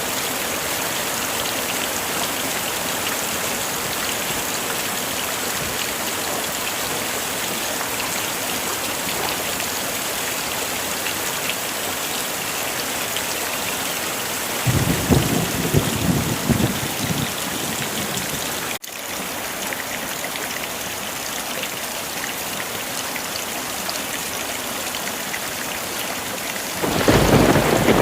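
Heavy rain falling in a steady hiss, with a low thunder rumble swelling about halfway through that breaks off abruptly after about four seconds, and another rumble starting near the end.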